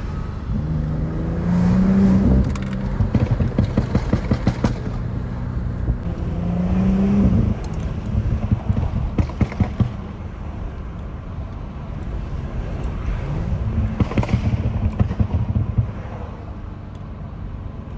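Stage 2-tuned BMW 540i with a catless downpipe and straight-piped exhaust, revved in short blips, each followed by a rapid string of sharp exhaust pops and crackles as the revs fall: tuned overrun pops. This happens three times.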